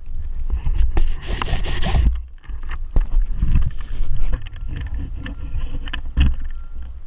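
Wind buffeting the microphone with a heavy low rumble, over irregular crunching and scraping of footsteps in snow; a louder rush of noise about a second in.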